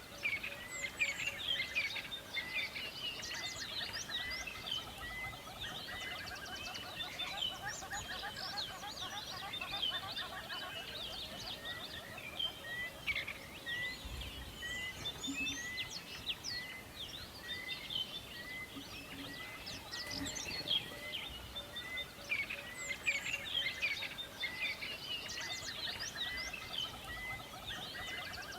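A dawn-chorus-style mix of many birds chirping and singing at once, their calls overlapping throughout. Through the middle, one bird repeats a short note about twice a second.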